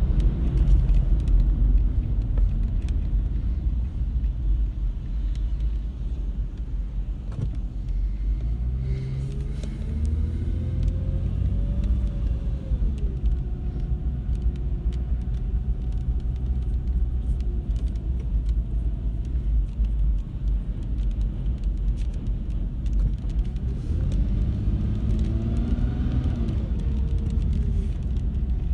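Steady low rumble of a motor vehicle, with a pitched engine note that rises and falls twice.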